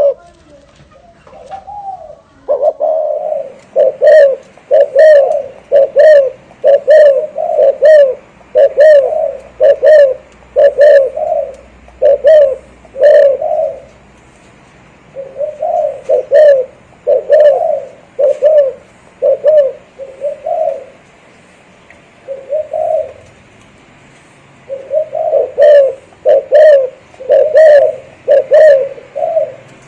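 Spotted dove cooing in the rolling 'thổ rền' style: long runs of quick, low, repeated coos, about two a second, broken by a few short pauses.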